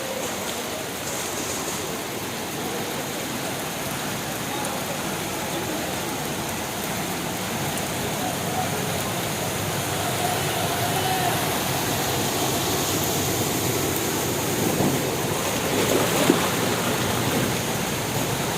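Floodwater rushing: a steady, even rush of water noise, with one brief louder hit near the end.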